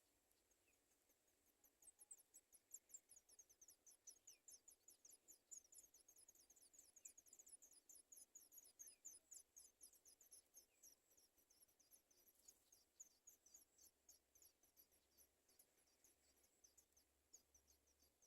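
Faint, rapid series of very high, thin begging calls from sooty chat nestlings. The calls start about a second and a half in and tail off near the end.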